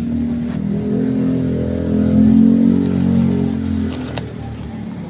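A motor vehicle's engine passing close by, swelling to a peak about halfway through and then fading away.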